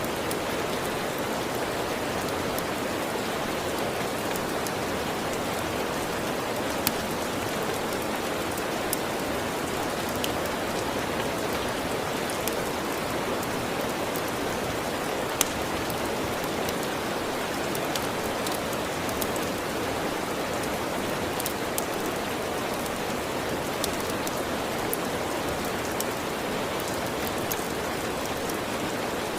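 Steady rain, with a wood fire crackling in scattered sharp pops; louder pops come about seven seconds in and again about fifteen seconds in.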